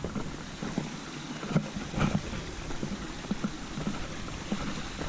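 Steady rush of running water from a small stream, with irregular soft knocks.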